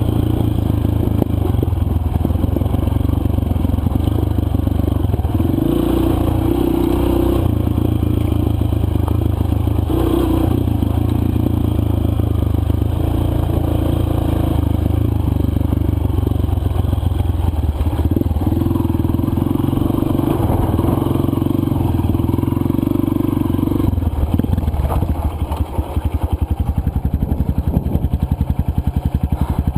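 Four-stroke single-cylinder dirt bike engine running under way, its note shifting as the throttle varies, with some rattling. About 25 seconds in it eases off to a lower, more evenly pulsing beat.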